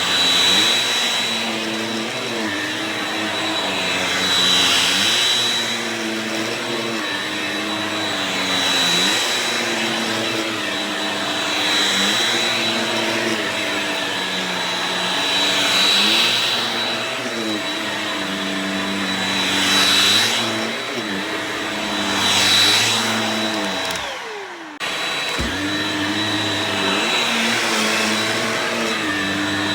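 Shark Rocket stick vacuum running, its motor whine and airflow hiss swelling and dipping in pitch about every four seconds with each slow push and pull. About 24 seconds in, the sound drops away briefly and then comes straight back.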